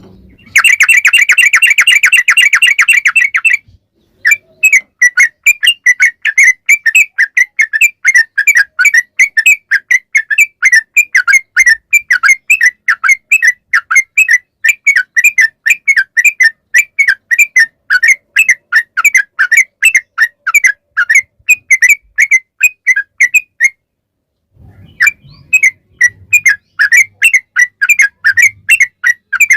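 Yellow-vented bulbul (trucukan) singing its long, rapid 'ropel' song. A dense, continuous trill for the first few seconds gives way to a long run of quick, bubbly repeated notes, about five a second. The notes break off briefly near the end and then start again.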